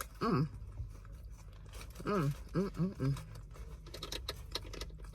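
A person eating crisp french fries, with small crunching clicks of chewing, and short hummed 'mm' sounds of enjoyment, one at the start and four in quick succession about two seconds in.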